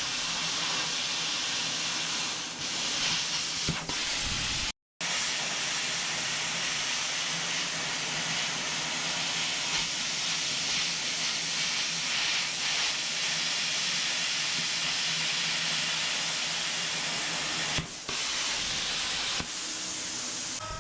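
A loud, steady hiss like rushing air or gas, with a faint low hum under it. It cuts out completely for a moment about five seconds in.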